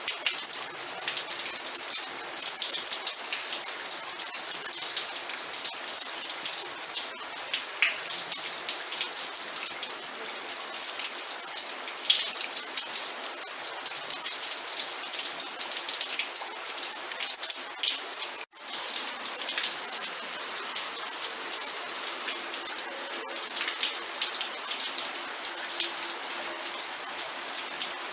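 Steady rain falling, a dense hiss with many small individual drop hits on a surface. The sound drops out for an instant about two-thirds of the way through.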